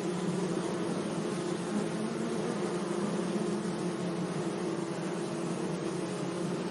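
Bees buzzing, a steady continuous hum.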